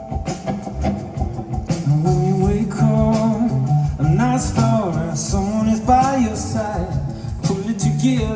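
A band playing live: plucked strings and a steady bass line, with a sliding, wordless melodic line over them.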